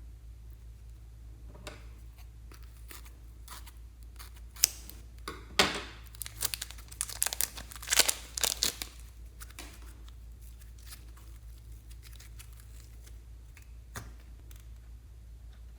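Slime being stretched and torn apart by hand, giving sharp crackling and tearing sounds. They come densest from about four and a half to nine seconds in, with a single click near the end.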